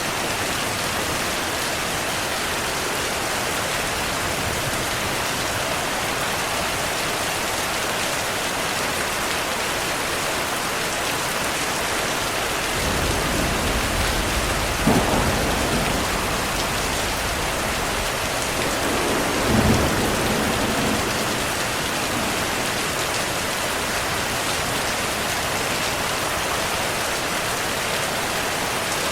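Steady heavy rain with thunder. Thunder rumbles in about halfway through with one sharp crack, and a second rumble follows a few seconds later.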